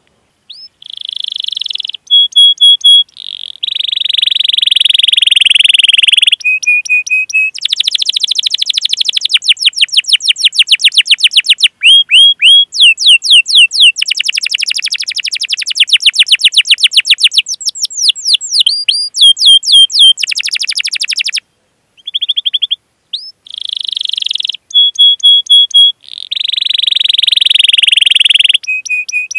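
Domestic canary singing a long, loud song: fast trills, runs of quick rising 'cuit cuit' chirps and held high rolls (ngerol), one phrase after another, with short abrupt breaks, the longest a little past the middle.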